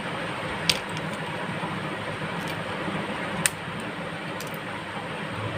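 Plastic housing of a Mi Bluetooth neckband earphone being pried open: a few sharp clicks, two louder ones about a second in and about three and a half seconds in, over a steady background hiss.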